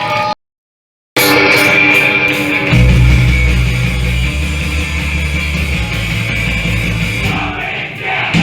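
Loud live punk/hardcore band playing with electric guitars. It cuts to silence for under a second just after the start, then the music resumes, and heavy bass and drums come in about a third of the way through.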